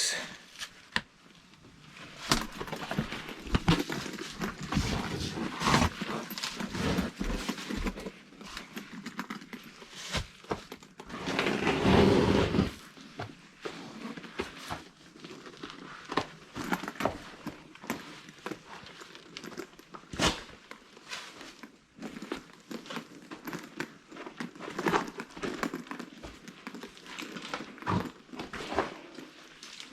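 Irregular footsteps, scrapes, clicks and rustles of a person clambering over rock and leaf litter into a narrow rock crevice, with a longer rush of scuffing about eleven to thirteen seconds in.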